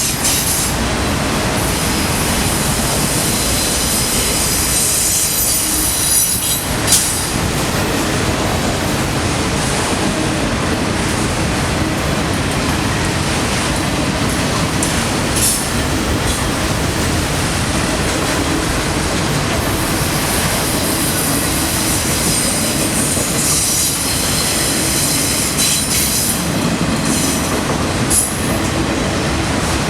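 Freight cars rolling past a grade crossing: a steady, loud rumble of steel wheels on rail, with high-pitched wheel squeal rising and fading several times and a few sharp clanks.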